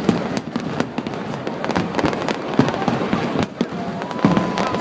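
A fireworks display bursting in quick, irregular succession: many sharp bangs and crackles overlapping, several a second.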